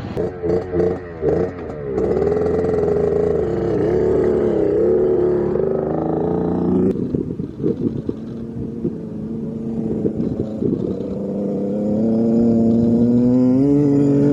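Dirt bike engine running, with quick revs in the first two seconds, then a steady, slightly wavering pitch. It changes abruptly about seven seconds in, and the pitch rises slowly near the end.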